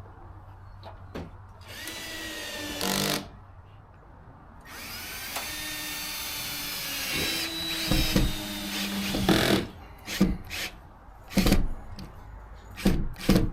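A power drill runs twice: briefly about two seconds in, then for about five seconds from just under five seconds in, its pitch climbing as the motor speeds up. Several short, sharp knocks follow near the end.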